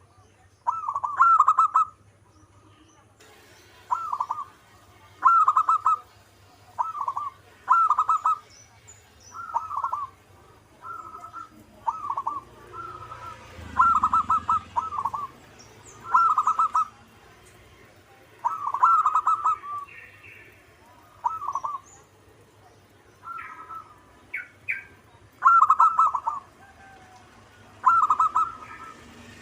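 Zebra dove (perkutut) cooing: short, staccato phrases of clipped notes, repeated about every one to two seconds.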